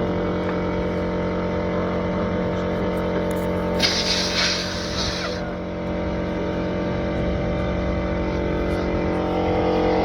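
An engine running steadily at idle, with a burst of air hissing about four seconds in that lasts a second and a half, the kind of hiss heard at a tyre repair.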